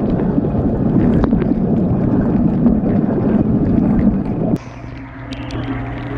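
Dishwasher spray jets splashing water against a GoPro inside the running machine: a loud rushing noise over a steady hum of the pump motor. The spray cuts off suddenly about four and a half seconds in, leaving the hum and small ticks.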